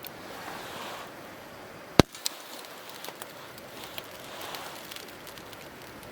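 Campfire burning with scattered small crackles and one sharp, loud pop about two seconds in, followed by a smaller one.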